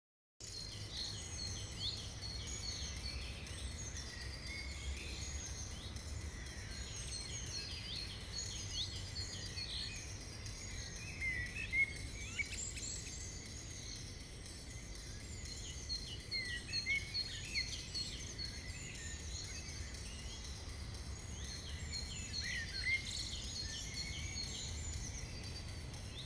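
Outdoor ambience: many small birds chirping and twittering over a low steady rumble. The sound cuts in abruptly about half a second in.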